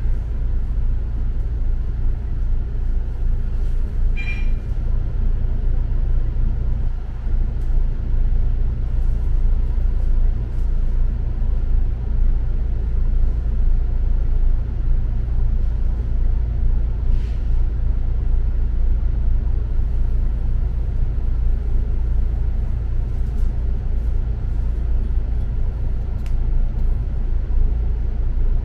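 Steady low rumble of a double-decker city bus in motion, engine and road noise heard from on board. A short high beep sounds once about four seconds in.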